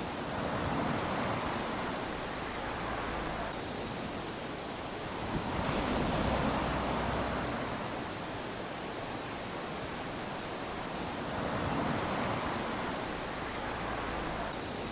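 Small sea waves lapping onto a sandy shore, a steady wash of surf that swells three times, about every five or six seconds, and eases back in between.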